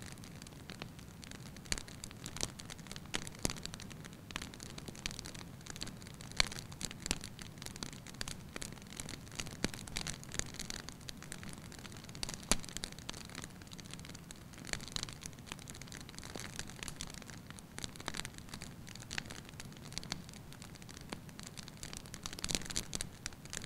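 Fire burning in a fireplace, crackling with irregular sharp pops over a low steady rush.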